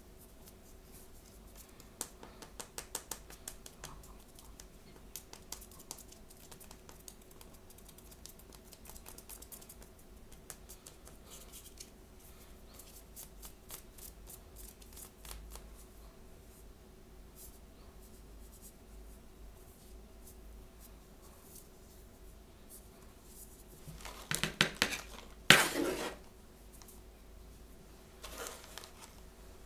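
Blind-bag packaging being handled and opened: quick small clicks and snips a couple of seconds in, then light scratching and rustling, then two loud crinkling, tearing bursts near the end.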